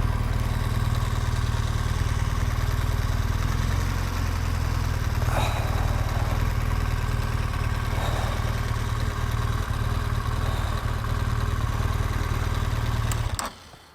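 BMW R1200GSA motorcycle's flat-twin boxer engine running steadily at low revs, then switched off near the end, cutting out suddenly.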